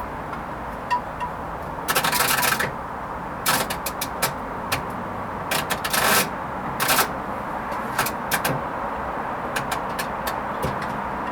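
Hoover Vision HVP16UK washing machine on its Silks 30 programme, the drum turning gently. Water and laundry swish in short bursts every second or two over a steady running noise, with scattered light clicks.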